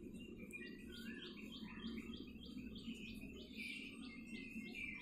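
A bird chirping in a rapid, regular series of short, high chirps, about three a second, starting about a second in, over a steady low hum.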